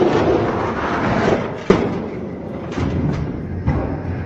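Die-cast Hot Wheels monster trucks rolling and rattling down a toy race track, with a sharp clack just under two seconds in and a few lighter knocks after.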